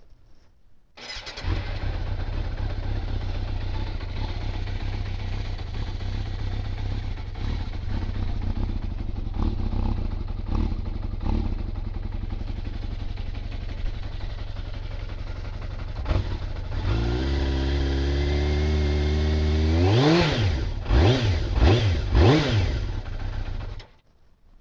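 Yamaha FZR600's inline-four engine starting from cold about a second in, then idling steadily. Near the end the idle rises a little and the throttle is blipped three times, the revs climbing and falling each time, before the engine stops suddenly.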